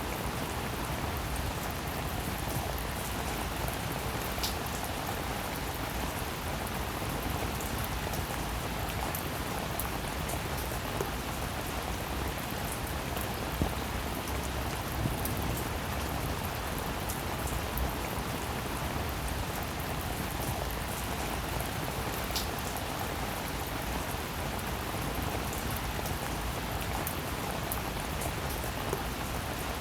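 Steady, dense rainfall with individual drops ticking sharply now and then, and a couple of brief higher pings from drops striking something hard.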